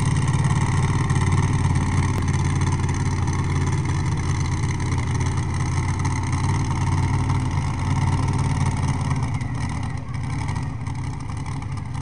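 Pulling tractor's engine running hard under load with a loud, steady exhaust, getting somewhat quieter about ten seconds in.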